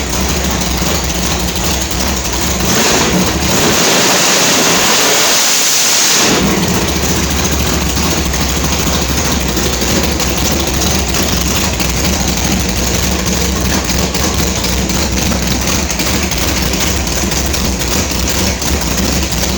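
Built 350 small-block Chevy V8 with a big solid-lifter cam running at a rough, choppy idle. About three seconds in it revs hard for roughly three seconds, then snaps back to idle.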